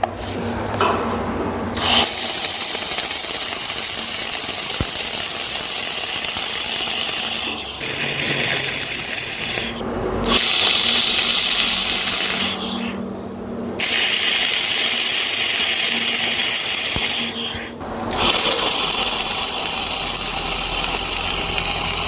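Arc welding on a steel hitch-link bracket, a steady crackling hiss laid down in five runs of a few seconds each with short breaks between beads.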